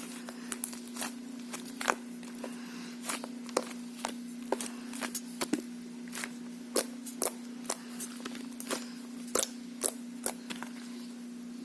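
A thick mugwort rice-cake style slime being squeezed and stretched by hand, giving irregular sharp clicks and pops, one to three a second, over a steady low hum.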